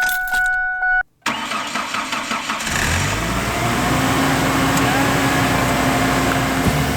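A vehicle's warning chime sounds for about a second. Then the engine cranks, catches about three seconds in, and settles into a steady idle: a cold start on a frigid morning.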